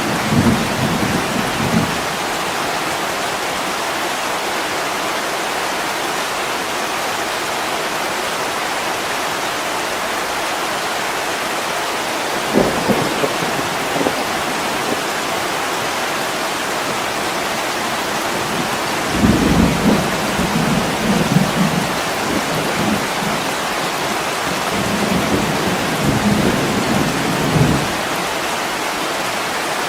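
Steady heavy rain pouring on a window, with low rumbles of thunder rolling in several times, each lasting a few seconds, and two short dull booms in between.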